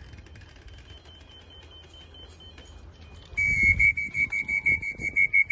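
Rapid electronic beeping, about six beeps a second, starting loud a little over three seconds in, with a fainter higher beep in the first few seconds: the loft's electronic timing pads registering racing pigeons as they trap in.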